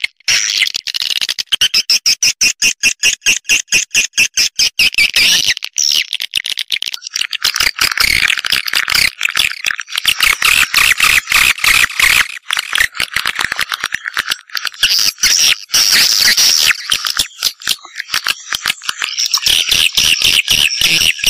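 Swiftlet calls: dense, rapid chirping and chattering repeated without pause, a swiftlet calling sound of the kind played to lure swiftlets into a nesting house.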